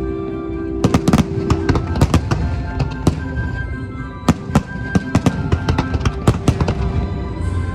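Fireworks going off in a fast, irregular series of sharp bangs, with music playing underneath.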